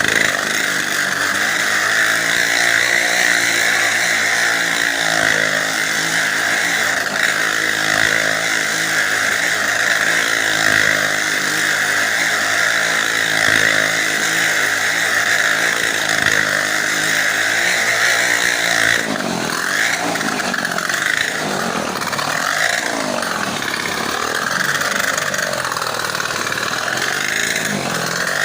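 Motorcycle engines in a well-of-death show, running hard at a steady pitch as they circle the wall. About two-thirds of the way in, the steady note gives way to revs rising and falling.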